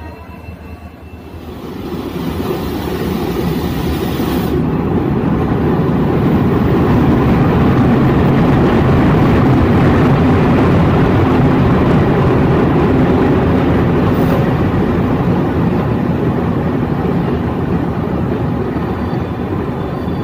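Diesel locomotive hauling a passenger train past close by as it arrives at a platform: the engine's drone and the rumble of wheels on rail swell about two seconds in, are loudest midway, then ease as the coaches roll past.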